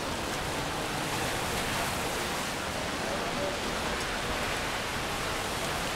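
Steady hiss of rain falling on a city street.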